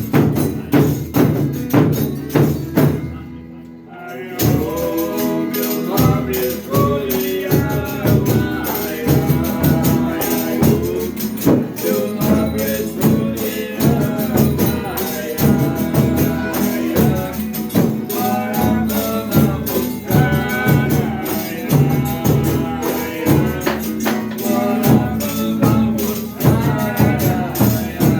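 Folia de Reis music: tambourines beating a fast steady rhythm, with several voices singing together. The music drops away briefly about three seconds in, then the singing comes in over the percussion.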